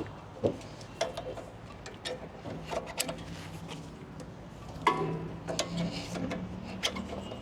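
An engine idling at low level, with scattered clicks and knocks over it.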